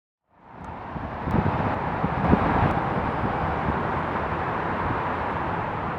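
Steady broad rumble of outdoor airport ambience, fading in over the first half-second, with a few faint knocks.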